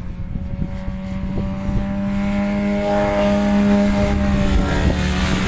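Racing motorcycle on the circuit, its engine note growing louder as it approaches, then dropping slightly in pitch as it passes. Wind buffets the microphone with a low rumble.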